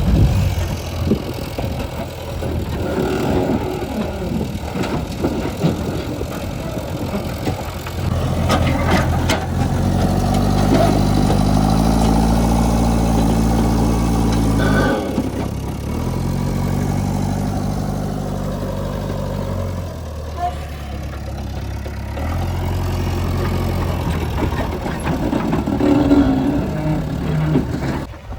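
Heavy diesel engine working under load. It revs up twice, each time holding high revs for several seconds before dropping back toward idle, with a few knocks partway through.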